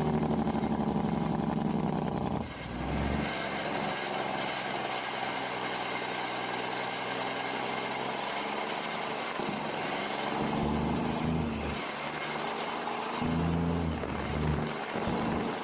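Big-rig truck's diesel engine running and pulling through gears, its low note dropping out between pulls. In the second half a high whistle rises and falls three times.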